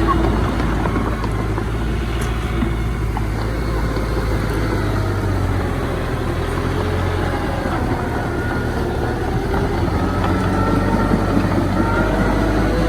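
Diesel engine of heavy earthmoving machinery running steadily with a deep low rumble, and a faint whine rising and falling in the second half.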